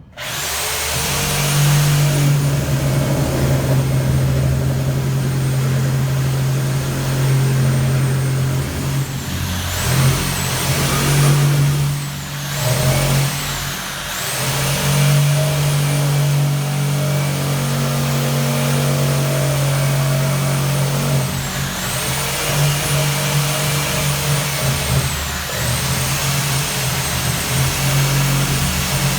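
Electric power tool motor running steadily with a high whine, which dips in pitch four times as the motor is briefly loaded.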